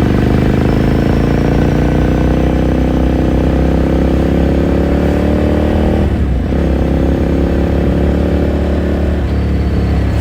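Ducati Scrambler Sixty2's 399 cc air-cooled L-twin under acceleration, its exhaust note climbing steadily for about six seconds, then dropping briefly at a gear change and climbing again.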